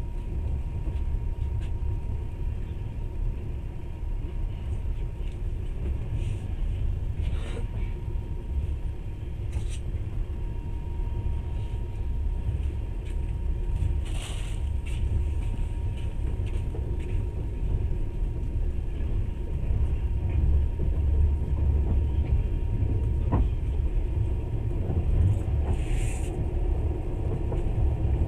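Steady low rumble of a moving passenger train heard from inside the carriage, with a faint steady whine and a few brief clicks from the wheels and car.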